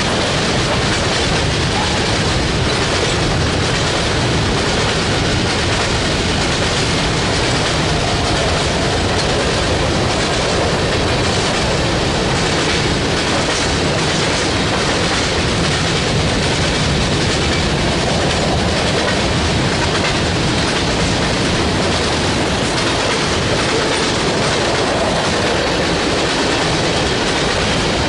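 Train rolling steadily past at close range, its railcar wheels clicking over the rail joints in a continuous clickety-clack.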